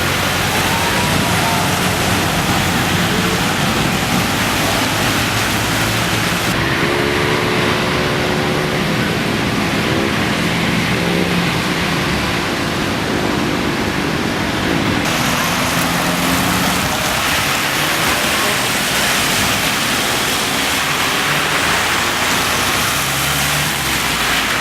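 Heavy storm rain and wind making a steady, loud hiss, with vehicle noise mixed in. Faint voices can be heard in the background through the middle.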